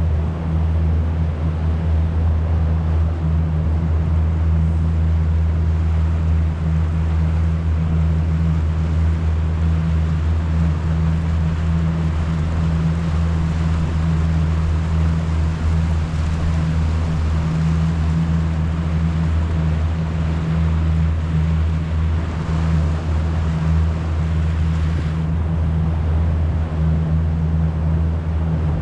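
Boat engine running steadily at a constant low hum, with water and wind hiss over it.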